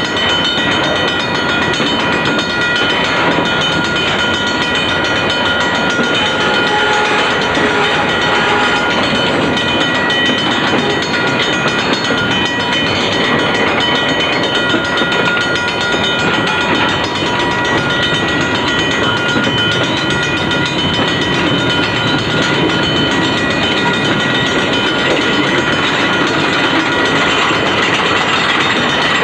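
Freight train cars rolling past close by: a steady loud rumble and clatter of steel wheels on the rails, with several steady high-pitched ringing tones over it.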